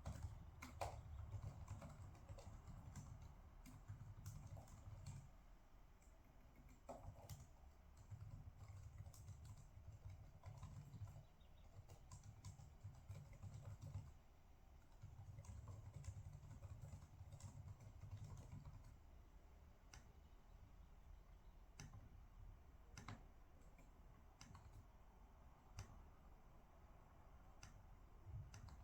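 Faint, irregular typing on a computer keyboard, scattered key clicks with pauses between them, over a low background rumble.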